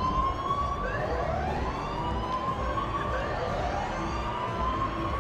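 Emergency-vehicle siren wailing: a tone that rises, levels off and rises again every second and a half or so, over a steady background rumble.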